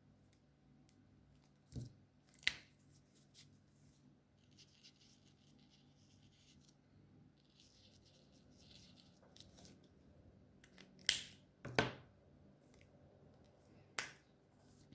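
Alcohol markers colouring on paper: soft scratchy strokes for a few seconds in the middle, with sharp clicks of marker caps, two about 2 s in, two louder ones around 11–12 s and one near 14 s.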